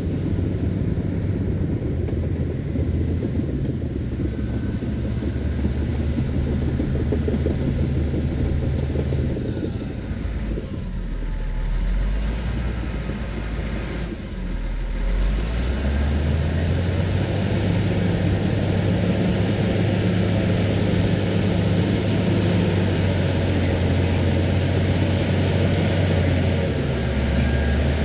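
Diesel engine of an earthmoving machine working as it pushes off topsoil. It runs under load, drops to a lower speed about ten seconds in, then revs back up about fifteen seconds in and runs steadily, easing slightly near the end.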